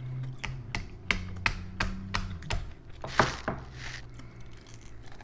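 Close-up eating sounds: a string of sharp clicking mouth smacks while chewing, then a brief crunchy bite of corn on the cob a little after three seconds in.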